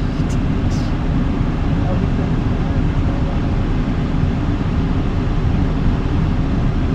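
Steady low rumble of road and engine noise inside a moving vehicle's cab.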